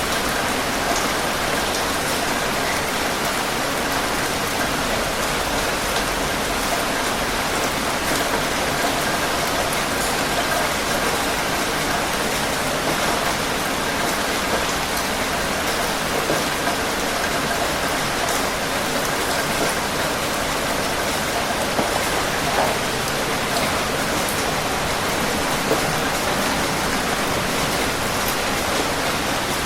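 Steady rain falling, an even hiss with scattered drops striking a surface.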